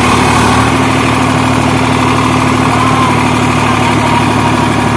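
Sonalika DI 47 tractor's diesel engine running steadily, its rotavator engaged and turning.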